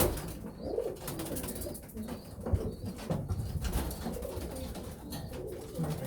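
Racing pigeons cooing, a steady low wavering coo from several birds, with a few sharp knocks, the loudest about two and a half seconds in.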